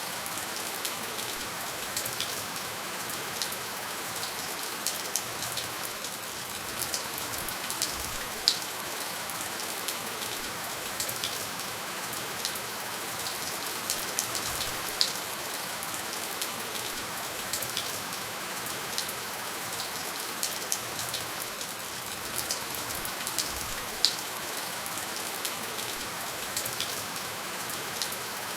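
Steady rainfall with no thunder: an even hiss of rain with scattered sharper drop ticks landing now and then.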